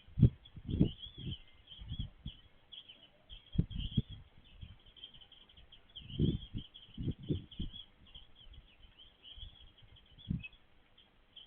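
Small birds chirping and twittering continuously, with irregular low thumps and rumbles in clusters that are louder than the birdsong.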